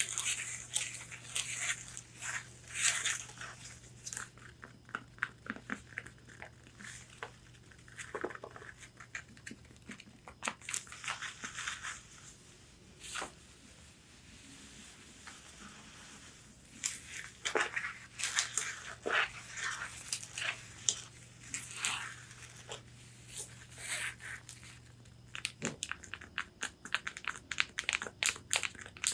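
Long fingernails tapping and scratching on a corset bodice: quick clusters of crisp taps alternating with rustling scratches across the fabric, with a quieter stretch in the middle.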